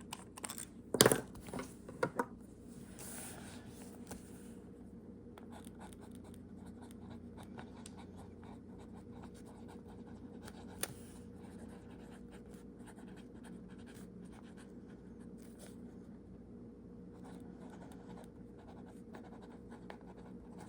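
Fountain pen nib scratching faintly across paper in short strokes, over a steady low hum. A couple of sharp knocks and a brief rustle come early on, as things are handled on the desk.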